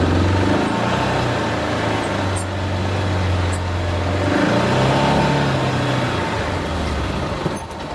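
Vehicle engine running, its pitch steady, then dipping and changing about four seconds in, and fading near the end.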